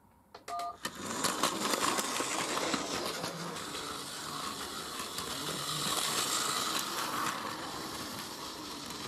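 A train starting off and running steadily, after a few clicks and a brief two-note tone in the first second.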